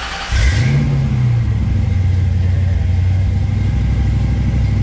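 1995 Ford Mustang Cobra R's 5.8-litre V8 cranking on the starter, catching about a third of a second in, flaring up briefly and settling into a steady idle. This is the first start after a new fuel tank was fitted and the empty fuel system was primed.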